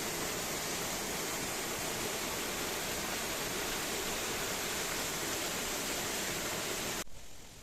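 Steady rush of flowing water from a mountain valley stream, which cuts off abruptly about seven seconds in.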